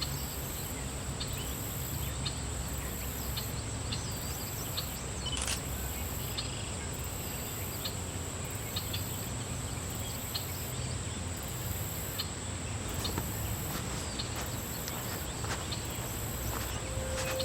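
Outdoor lakeside ambience: a steady low rumble with a high, thin insect trill that pulses on and off about once a second, and scattered faint ticks and chirps.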